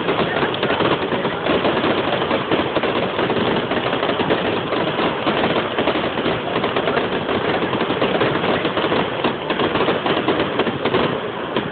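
Fireworks crackling: a dense, unbroken rattle of rapid small pops from many crackling stars bursting at once.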